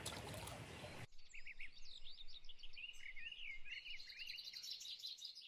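A rushing noise for about a second that cuts off abruptly, then songbirds chirping and trilling, several voices overlapping, with short rapid phrases.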